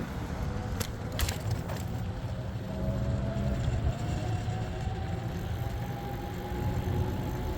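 Low steady rumble of a vehicle engine running, with a few sharp clicks in the first two seconds and a faint tone slowly rising in pitch from about two and a half seconds in.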